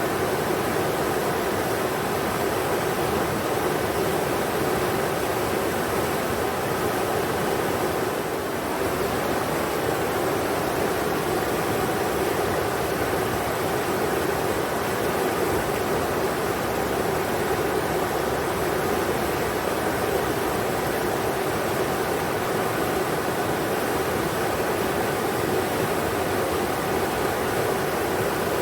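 Englishman River flowing over rocks: a steady, even rush of water that does not change.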